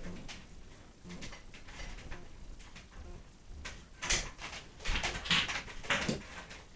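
Handling noises: scattered light clicks and knocks, then a run of louder rustling and scraping from about four seconds in, as equipment and cables are moved about.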